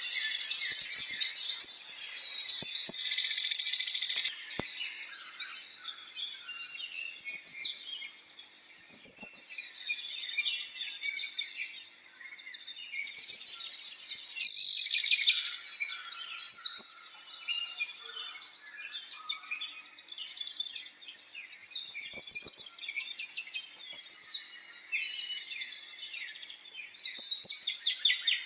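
Small songbirds chirping and trilling, many short high calls overlapping almost without a break.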